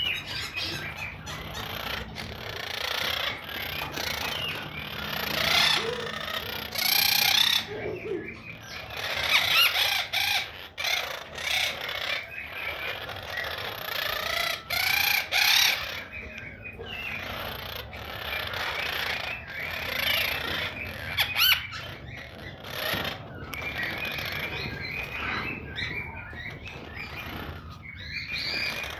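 Monk parakeet (quaker parrot) chattering and squawking, a long run of short, shifting calls broken by sharp clicks.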